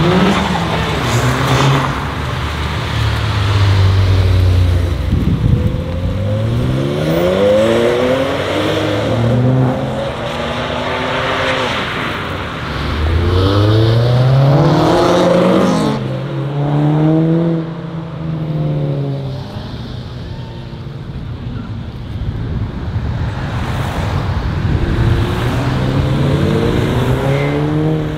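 Modified cars accelerating hard one after another, engine notes rising in pitch as each pulls away, then dropping back, several times over.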